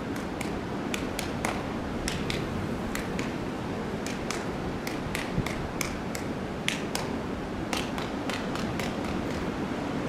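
Orangutan clapping its hands over and over: sharp, unevenly spaced claps about two or three a second, a plea to be let indoors out of the cold, over steady wind noise.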